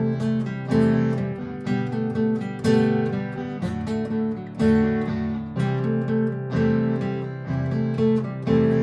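Martin GPCPA4 acoustic guitar strummed in a steady, repeating rhythm, with a strong strum about every second and picked notes ringing over it, played over a looped guitar part.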